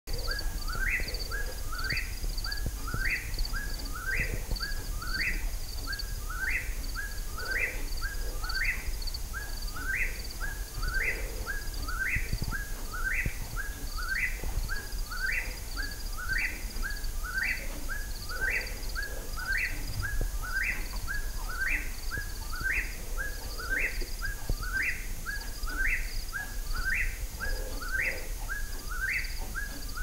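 A bird calling over and over, the same short call about once a second: a brief note followed by a sharply rising whistle. A faster, higher-pitched chirping runs steadily behind it.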